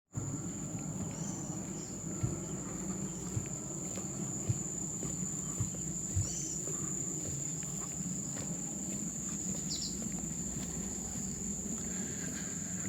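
Insects droning, one steady high-pitched tone that never breaks, over a low rumble. There are a few soft thumps and a few brief faint chirps.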